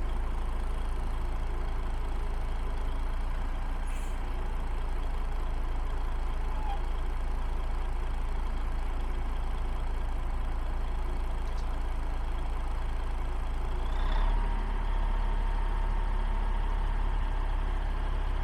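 1985 Ford 9000 heavy truck's engine running steadily with a deep low rumble. About fourteen seconds in the sound briefly swells and settles a little louder, with a steady whine added on top.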